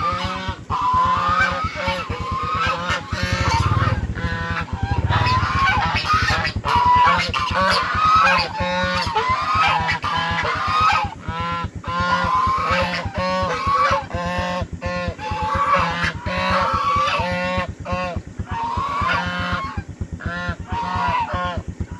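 Goose screaming in fear, giving loud honking calls in quick succession, one after another with hardly a pause.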